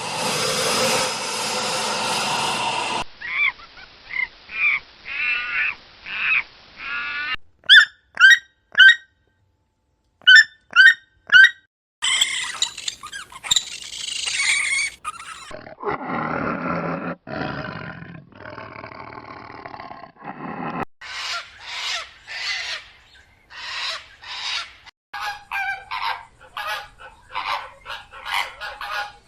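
A run of short animal-call recordings played back to back, several different animals in turn: repeated pitched calls, a burst of short sharp chirps, lower drawn-out calls and a fast series of calls, each clip ending in an abrupt cut.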